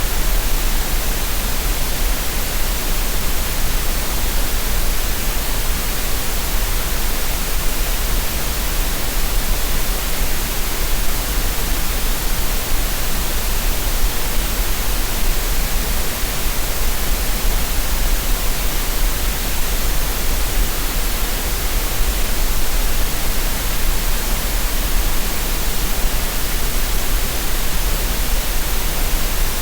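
Synthetic green noise played as a relaxation and tinnitus-masking track: a steady, unchanging hiss with a low rumble underneath.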